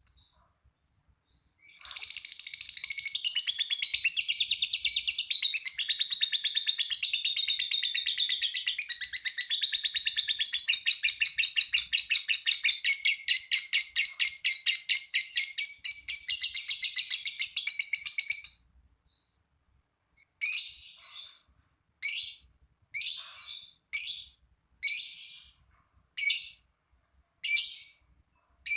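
Lovebird doing its 'ngekek': a long unbroken, rapid high-pitched chattering trill lasting about sixteen seconds, starting about two seconds in. After a short pause it gives a series of separate short, sharp chirps about once a second.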